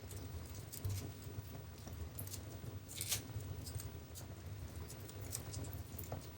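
Wood fire crackling in a fireplace: scattered sharp pops and snaps over a low, steady rumble of the flames, with one louder crack about three seconds in.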